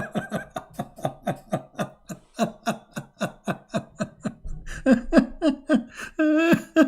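A man laughing: a long run of quick, even 'ha-ha-ha' sounds, about seven a second, turning into a few longer, drawn-out laughs near the end.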